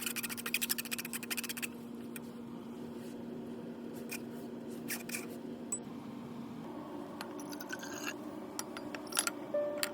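A fast, even run of scraping strokes for about a second and a half, then scattered clicks and taps, over soft background music.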